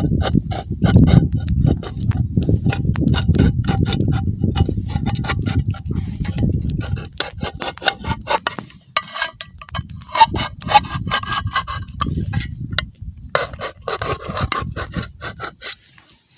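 A tin can of mackerel being cut open, metal scraping and rasping in many quick repeated strokes. A low rumble sits under the first half.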